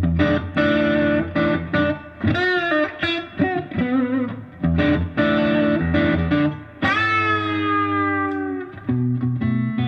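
Electric guitar, a Stratocaster through a Koch amplifier, playing chord stabs and short licks of a bluesy shuffle. About seven seconds in, a chord rings out for about two seconds while its pitch sinks slowly, a dip from pressing on the vibrato bridge, before low notes come back in.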